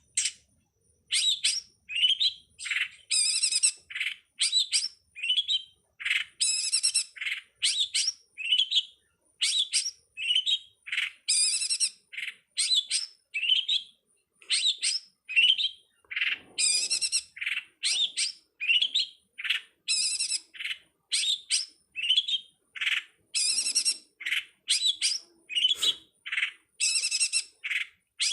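Pentet (long-tailed shrike) calling: a continuous run of short, sharp chirps, about two or three a second.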